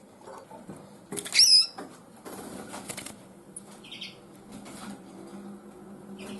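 A small captive linnet fluttering and struggling its wings in the hand, with rustling throughout. It gives one loud, wavering high chirp about a second and a half in and a short faint call near four seconds.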